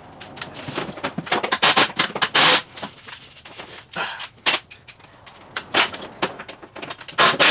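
Irregular clicks, clanks and scraping of hand tools and metal parts being handled during a car teardown, with a few louder scraping bursts.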